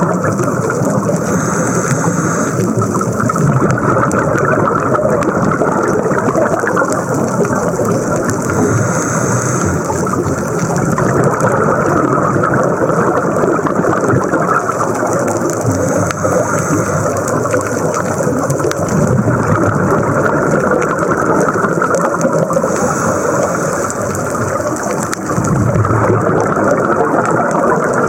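Scuba diver breathing through a regulator underwater: a steady rushing and bubbling, with a burst of exhaled bubbles about every seven seconds.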